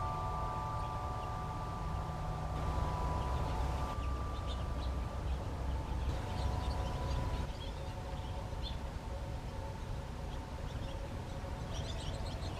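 Wind chimes ringing with long, slowly fading tones, and small birds chirping in short high notes over a low steady rumble.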